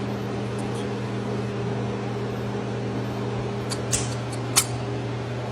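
A steady low mechanical hum with a faint hiss, broken by a few short clicks about four seconds in.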